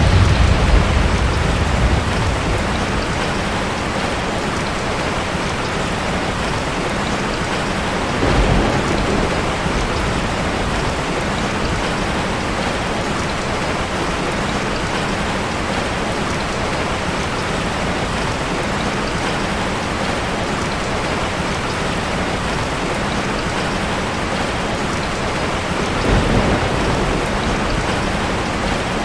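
Ocean surf: a steady wash of breaking waves, with heavier waves crashing at the start, about 8 seconds in, and again about 26 seconds in.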